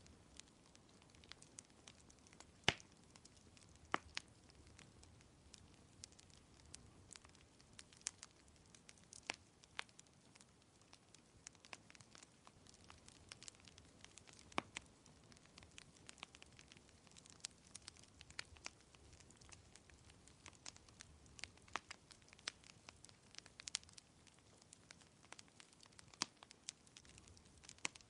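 Wood fire crackling: irregular sharp pops and snaps over a faint hiss, the loudest pop about three seconds in.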